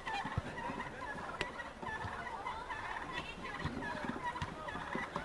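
Players' shoes squeaking in many short chirps on the pitch surface during a five-a-side football game, with a few dull thumps of the ball being kicked.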